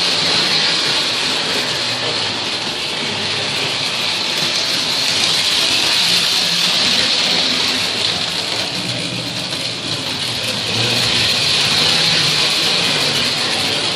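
Lionel toy electric train running on metal three-rail track, a steady rattle of wheels and motor. The sound swells and fades every several seconds.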